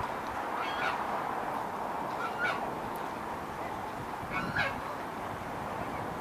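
Waterfowl calling with short honks, three in a few seconds, over a steady background hiss.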